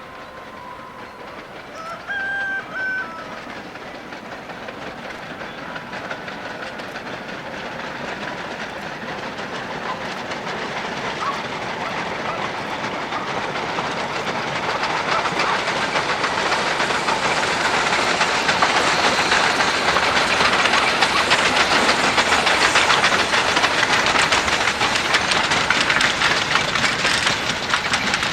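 C2 narrow-gauge steam locomotive giving two short whistle blasts, then coming nearer with its train. The clatter of its wheels and running gear grows steadily louder.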